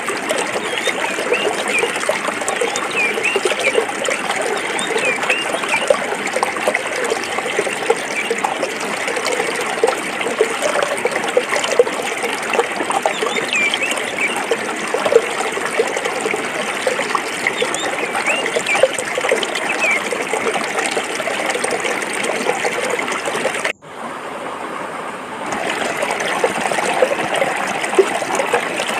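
Forest stream flowing over rocks, a steady trickling and bubbling. It cuts out abruptly about three-quarters of the way through, comes back softer for a second or two, then returns to full level.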